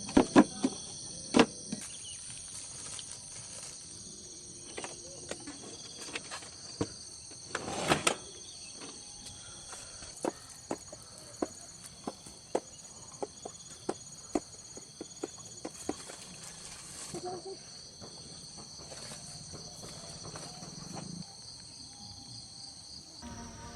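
Crickets and other night insects calling steadily in several high bands, over irregular sharp pops and crackles of a wood bonfire, the loudest about a second in and around eight seconds.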